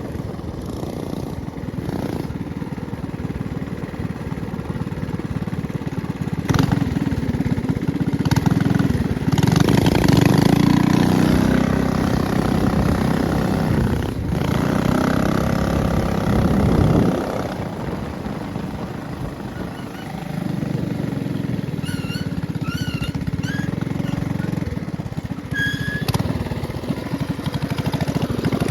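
Small minibike engine running, revving harder for several seconds in the middle and then easing off. A few short high chirps come near the end.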